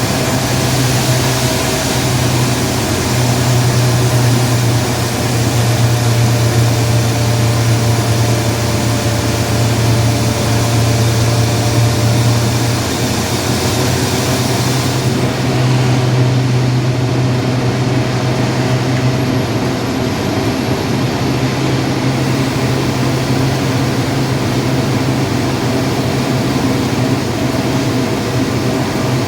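Steady drone of a vehicle driving along a highway: engine and road noise with a strong, constant low hum.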